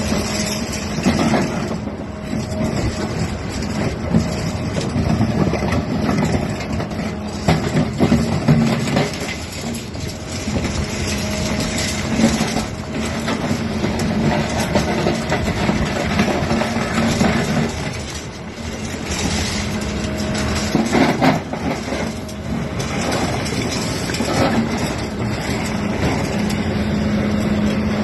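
Excavator diesel engine running under working load, its pitch rising and falling slightly, with irregular knocks and crunching from a hydraulic attachment handling demolition material.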